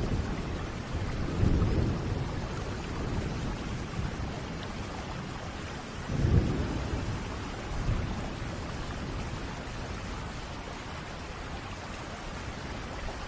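Steady rain with rolling thunder: low rumbles swell about a second and a half in and again about six seconds in, the second the loudest, then ease off, leaving the rain.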